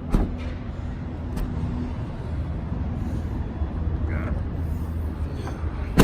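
Handling of a pickup's rear cargo lid: a click just after the start, then a single sharp knock at the end, over a steady low rumble.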